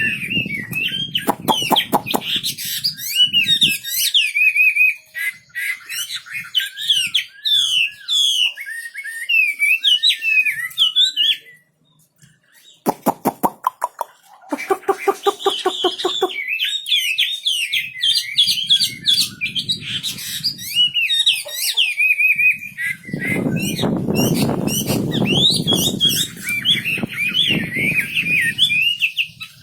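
A wambi songbird singing on and on: a fast, chattering run of high warbling, up-and-down notes. Two bursts of harsh, rapid rattling calls break in, one near the start and one about halfway, and a low rumbling noise runs under the song in the second half.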